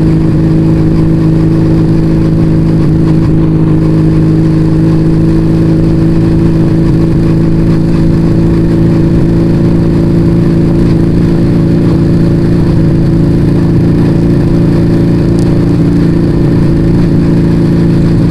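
Yamaha Vega ZR motorcycle with an aftermarket Arrow exhaust, cruising at about 40 km/h: a smooth, steady engine and exhaust note that holds one even pitch throughout, with wind rumbling on the microphone underneath.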